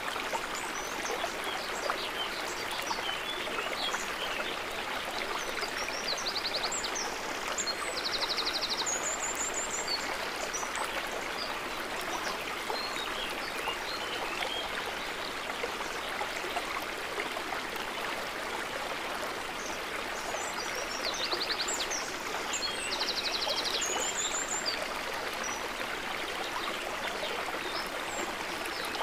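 Water trickling and gurgling steadily.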